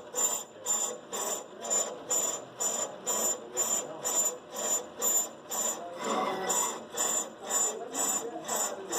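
Brake lathe cutting bit scraping against a turning brake rotor or drum, in an even pulsing rhythm of about two and a half scrapes a second. It is the same sound the operators are still getting and try to cure by bringing the blade in further.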